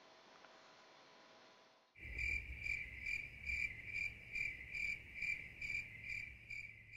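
Cricket-like chirping, a high pulsing tone repeating about twice a second, cutting in suddenly about two seconds in over a low hum. Before it there is only faint room tone.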